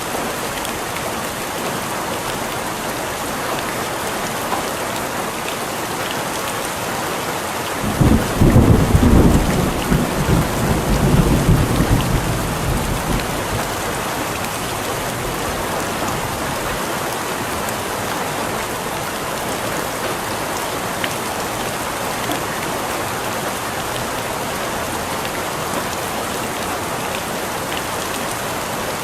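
Steady rain falling on a surface, with a roll of thunder about a third of the way in that rumbles loudly for a few seconds and then dies away.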